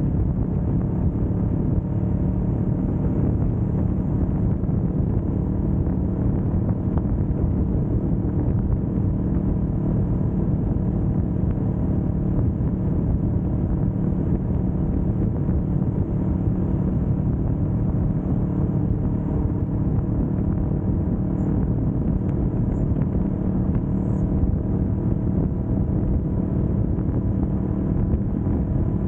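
Kawasaki Vulcan S 650 parallel-twin engine running at a steady, unchanging engine speed while the motorcycle cruises, with a low, even hum.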